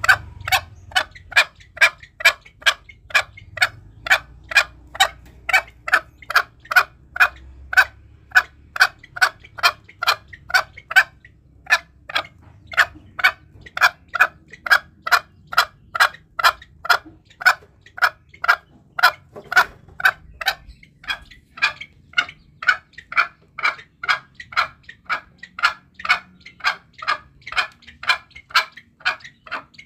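Green junglefowl calling: short, sharp notes repeated in a steady, even rhythm, a little over two a second, used as a lure call to draw wild junglefowl.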